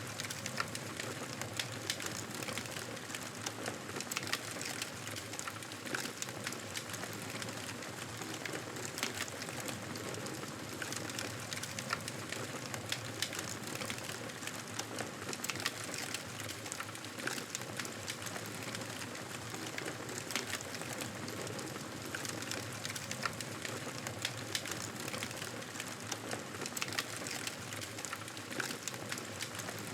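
Wood fire crackling in a fireplace: a steady hiss with frequent irregular pops and snaps.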